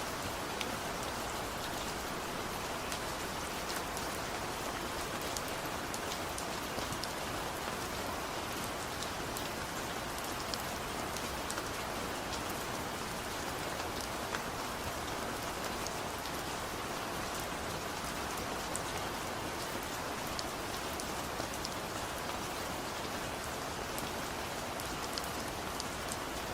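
Steady, gentle rain without thunder, falling on a surface, with many small drop ticks scattered through an even hiss.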